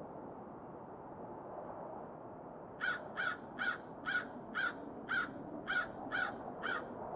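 A bird calling in a run of nine short, harsh calls, about two a second, starting about three seconds in, over a steady low background hiss.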